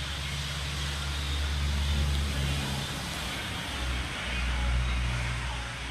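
Honda CB 300R's single-cylinder engine running, getting louder twice, as if lightly revved.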